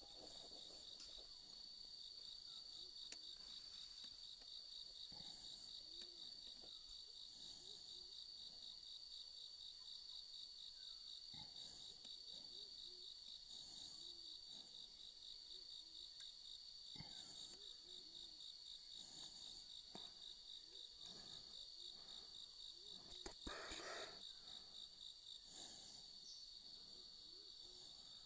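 Faint, steady chorus of insects trilling high and with a fine, rapid pulse. A brief louder noise comes near the end.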